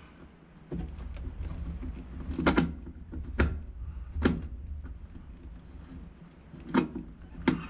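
A low steady hum of the air-conditioning unit comes on under a second in, as the tech tries to get a compressor that will not start to run. Five sharp clicks or knocks of handling sound over it.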